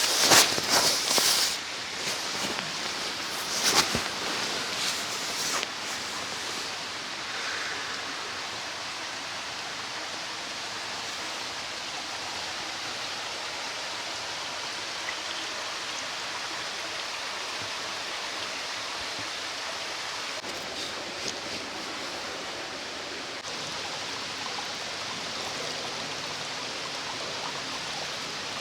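Mountain stream flowing steadily, with a few sharp clicks and knocks in the first few seconds.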